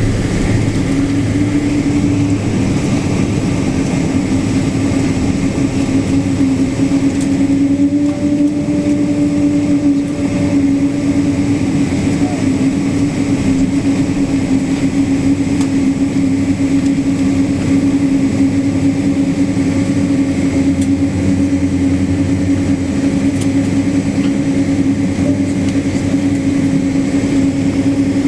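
Cabin noise of a Boeing 777-200 with its engines running at a steady setting: a constant loud hum and rush with a steady droning tone.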